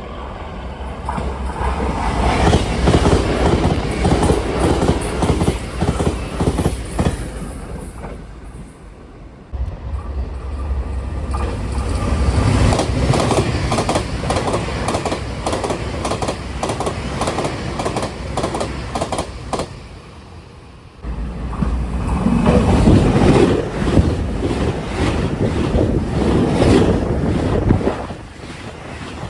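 Three separate high-speed passes by express electric trains at about 125–130 km/h, each a loud rush of wheel and running noise with rapid clatter of the wheels over rail joints. Each pass rises and fades, and they are joined by abrupt cuts, about a third and two-thirds of the way through.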